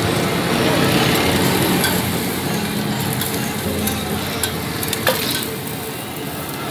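Eggs and shami kababs sizzling in oil on a large flat steel griddle, a steady frying hiss, while a metal spatula scrapes through the eggs. A few sharp clicks of the spatula on the griddle stand out, the clearest about four and five seconds in.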